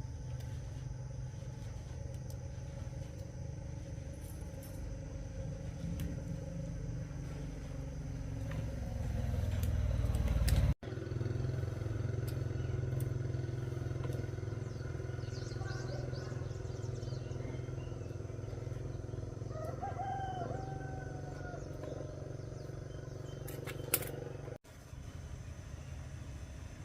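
Small 110cc motorcycle engine running steadily, its note swelling louder for a couple of seconds just before a cut about eleven seconds in. A rooster crows once about twenty seconds in.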